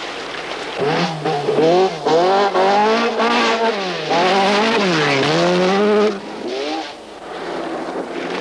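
Rally car engine revving hard, its pitch climbing and falling several times as the driver changes gear and lifts off, with a brief easing off about two-thirds through before it picks up again.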